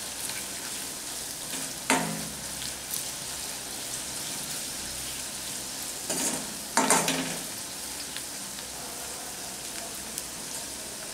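Onions and ground spices frying in oil in a metal kadhai, a steady sizzle, with the stirring spoon scraping and knocking against the pan about two seconds in and again around six to seven seconds in.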